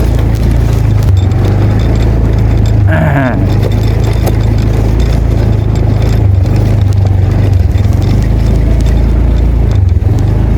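An engine running steadily with a low hum. About three seconds in, a short gliding voice-like call cuts across it.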